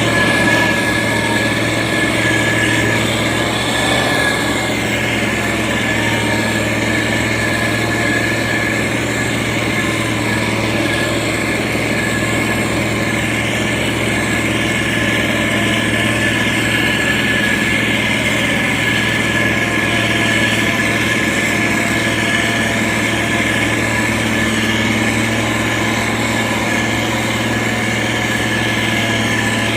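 Heavy road-construction machine's diesel engine running at a steady speed, with a constant high whine over the engine sound.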